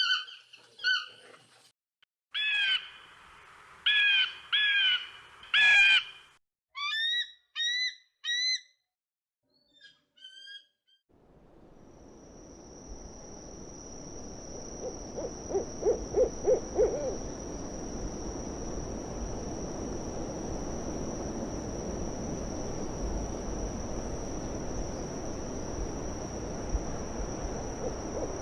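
Owl hooting in a quick run of short low hoots against a background with a steady high-pitched hum. This follows several seconds of high squeaking calls and fainter short chirps.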